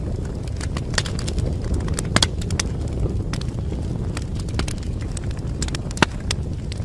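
Wood fire burning in a fireplace: a steady low rumble of flames with irregular crackles and sharp pops of burning wood, a louder pop about two seconds in and another about six seconds in.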